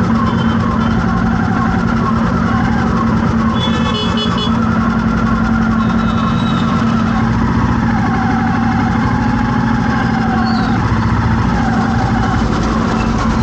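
Road traffic in a jam: vehicle engines running steadily with a continuous low hum, and a short high beep about four seconds in.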